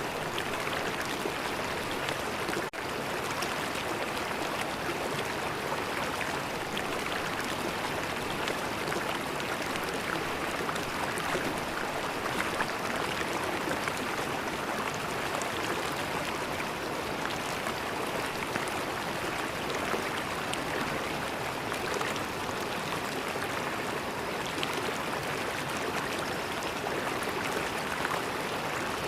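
River water flowing and gurgling steadily over stones, with small splashes scattered through it.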